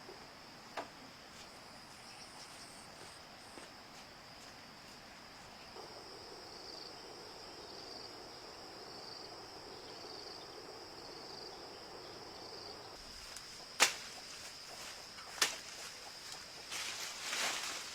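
Insects chirring with a steady high-pitched drone that pulses faintly. About two-thirds of the way in, a few sharp knocks cut through it.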